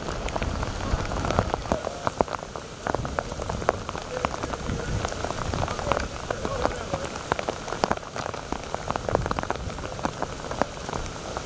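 Heavy rain falling, with many sharp ticks of individual drops striking close by over a steady low rumble.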